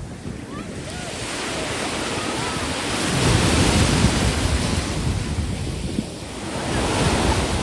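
Ocean surf breaking and washing up the shore, swelling twice, with wind buffeting the microphone.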